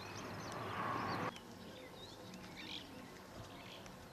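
Small birds chirping intermittently outdoors. A rush of steady noise swells over the first second and cuts off suddenly.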